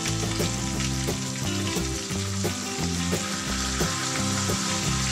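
Pompano, ginger and onion sizzling steadily in hot cooking oil in a pan as seafood soy sauce is poured over the fish, with background music underneath.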